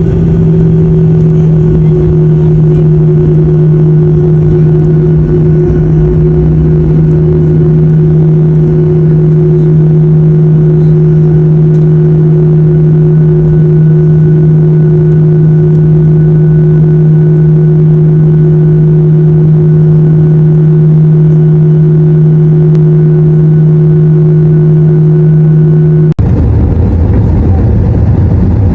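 Airliner engine drone inside the cabin: a loud, steady hum with a second steady tone above it. Near the end it cuts off abruptly and gives way to a rougher rumble.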